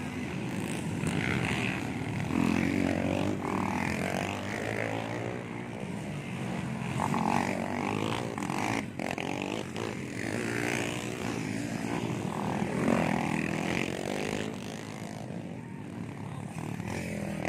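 Motocross dirt bike engines revving and running hard, their pitch rising and falling continuously as the bikes ride the track.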